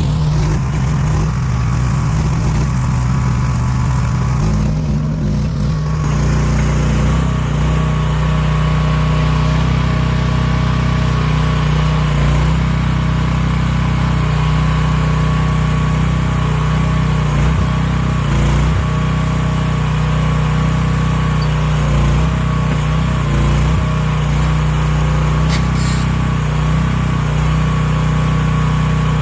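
AGT 1-ton mini excavator's 15 hp gasoline engine running steadily at throttle. Its note steps up slightly about six seconds in and dips briefly several times afterwards.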